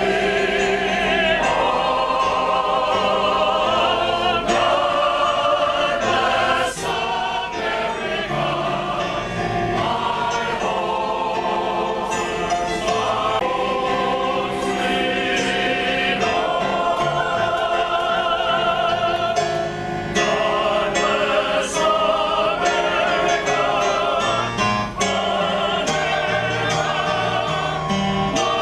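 Male choir singing a song in harmony, with long held notes and vibrato.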